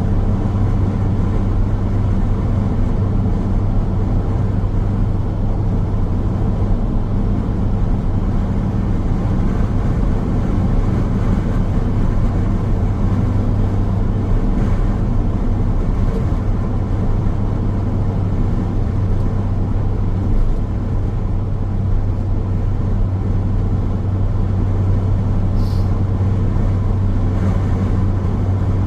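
Car driving along a road: steady road noise of tyres and engine with a strong, even low hum.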